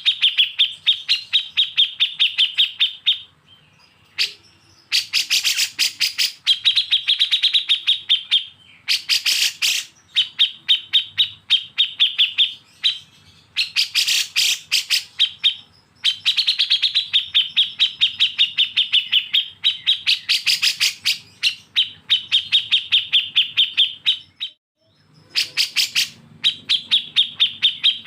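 A songbird's fast chattering: runs of sharp, rapidly repeated notes in phrases of a few seconds, broken by short pauses, with one longer run in the middle.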